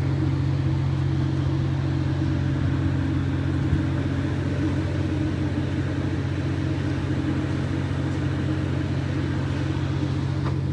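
Steady low mechanical drone of running engines or machinery: a deep, even hum with a fainter hum above it, unchanging throughout.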